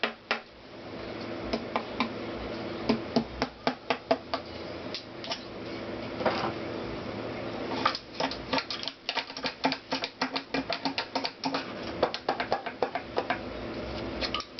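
Hand tools clicking and tapping on the metal parts of a Honda CX500 engine being taken apart: many sharp clicks, coming in quick runs between about eight and thirteen seconds in, over a steady low hum.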